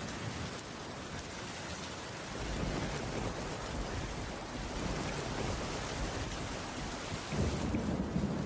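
Steady rainfall on a wooden roof, with a low rumble that swells about two seconds in and more strongly near the end.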